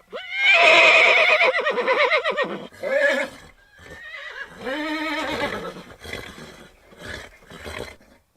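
A horse whinnying: one loud, quavering neigh lasting about two and a half seconds, then a short neigh, a longer call in the middle, and several short calls near the end.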